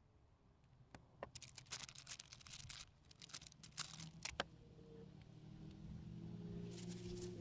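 Scattered sharp clicks and crackles, densest in the first half, then soft background music with long held notes fading in over the last couple of seconds.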